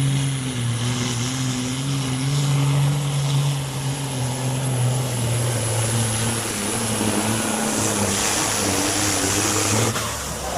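Heavy diesel engine of a Supersport pulling truck running hard, its note sinking gradually in small steps, with a thin steady high whistle over it. Near the end the engine sound falls away.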